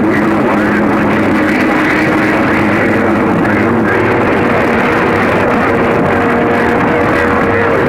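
CB radio receiver hissing with atmospheric band noise from skip conditions, with steady heterodyne whistles in it: a low pair that fades out about four seconds in and a higher one that comes in about five seconds in.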